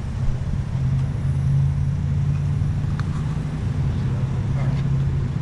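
2012 Chevrolet Camaro SS's 6.2-litre V8 idling steadily.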